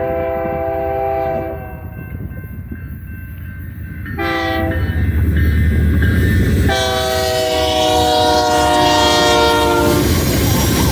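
BNSF freight train's diesel locomotives sounding their multi-note air horn: a long blast ending about a second in, a short blast around four seconds, then a long blast that drops slightly in pitch as the lead unit passes. A deep engine rumble builds under the horn, and the rolling noise of the locomotives and cars takes over near the end.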